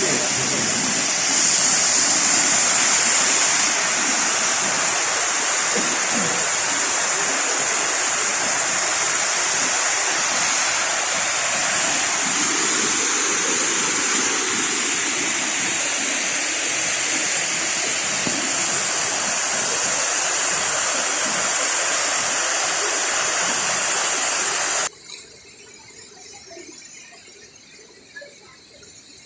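Ouzoud waterfall: steady, loud rushing of falling water, which cuts off abruptly near the end and leaves only faint sound.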